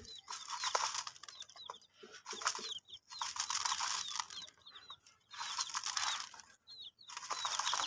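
Baby chicks peeping: many short, high chirps that fall in pitch, coming in quick succession. They sound over stretches of scratchy rustling noise that start and stop several times.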